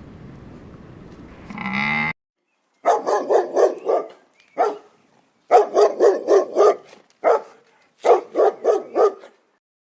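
A cow moos briefly in the first two seconds. Then a dog barks in quick runs of several barks each, with short pauses between the runs.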